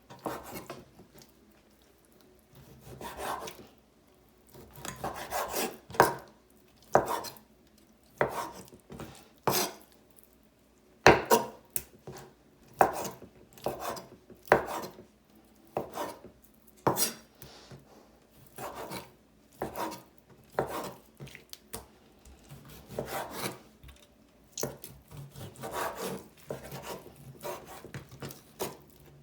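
Chef's knife cutting raw chicken breast into bite-size pieces on a cutting board: irregular knocks of the blade on the board, roughly one a second, with some sawing strokes between them. There is a short pause at the start.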